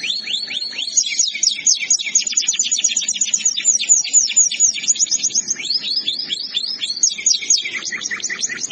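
Domestic canary singing a continuous song of fast trills, each note a quick downward sweep, repeated several to about ten times a second. The phrase changes a few times, with a lower-starting trill about two thirds of the way through. The song breaks off right at the end.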